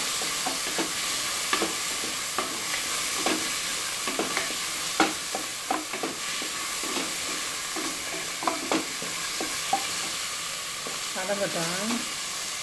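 Chopped onions and tomatoes frying in oil in an aluminium pressure cooker, sizzling steadily, while a wooden spatula stirs and scrapes the pot, knocking against its metal base and sides at irregular moments.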